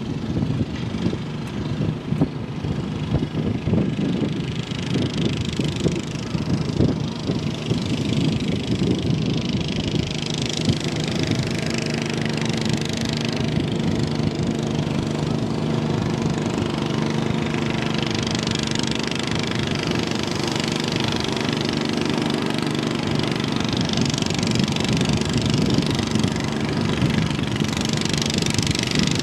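Garden pulling tractor engine running, uneven for the first several seconds, then holding a steady speed.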